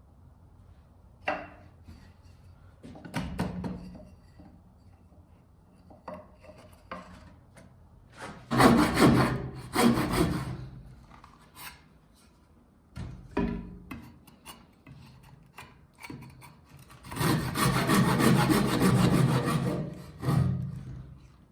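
Hand tools working wood: a scattering of light knocks and taps, and two spells of rasping strokes on wood, the second one longer and steadier near the end.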